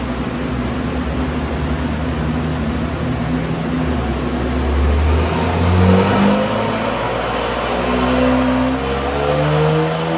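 BMW M3 Competition's twin-turbo straight-six running under load on a chassis dyno: engine note steady at first, then climbing steadily in pitch from about halfway as the car pulls up through the revs. This is a baseline power run on the stock tune.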